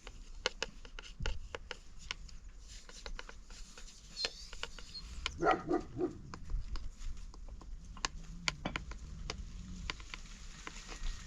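A dog barking: a quick run of a few short barks about five and a half seconds in, over scattered light clicks and knocks.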